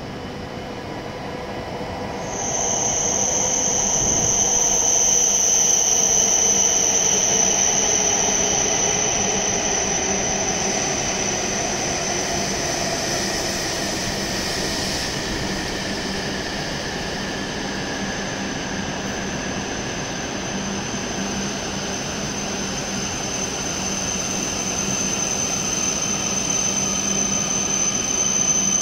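E7 series Shinkansen train pulling into the platform and slowing. A high, steady squeal starts about two seconds in and carries on throughout, over a lower motor whine that falls in pitch as the train decelerates.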